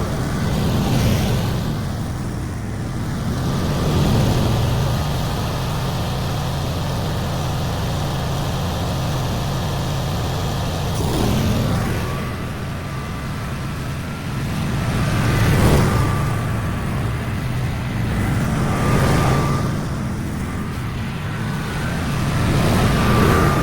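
Lawn mower engine running steadily under load while mowing, its sound swelling and fading every few seconds as it moves back and forth across the yard.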